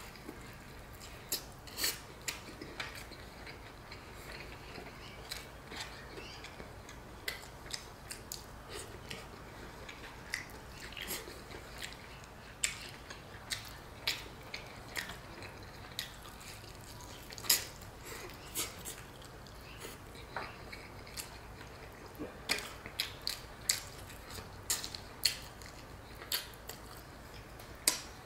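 Close-miked chewing and lip smacks of a person eating rice and meat by hand: scattered, irregular sharp wet clicks, a few of them louder, over a faint low hum.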